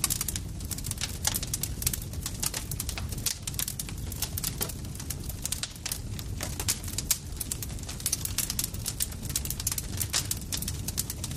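Campfire crackling: dense, irregular snaps and pops of burning wood over a steady low rumble.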